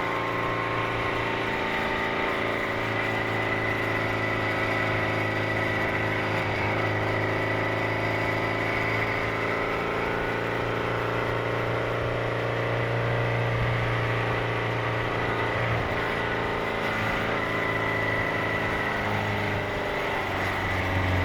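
Supercharged 1328 cc XPAG four-cylinder engine of a 1938 MG TA Special race car, running at a steady pace under way, with a thin steady high tone over the engine note. The engine note shifts about nineteen seconds in.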